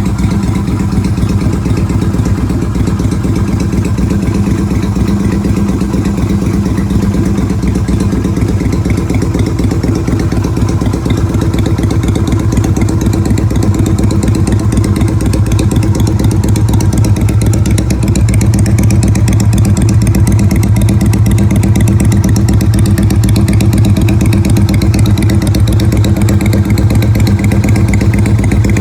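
Yamaha Virago 250's air-cooled V-twin engine running at a steady speed. The sound changes character partway through and is a little louder for the last third.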